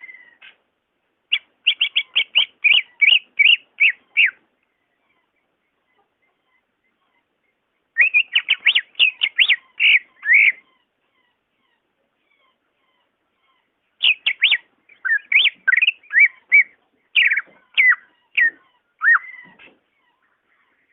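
Cucak ijo (greater green leafbird) singing: three bursts of rapid, clear whistled notes with silent pauses between them. The third burst is the longest and most varied.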